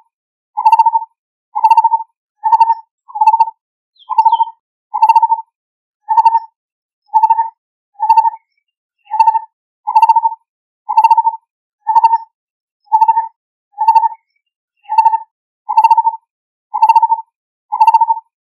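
Lineated barbet (Psilopogon lineatus) calling: a steady series of short, low, hollow notes, about one a second, repeated without a break.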